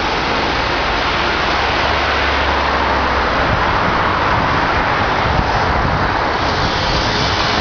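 Heavy demolition excavators at work: a loud, steady wash of diesel engine and machinery noise, with a low engine drone standing out for a moment about two seconds in.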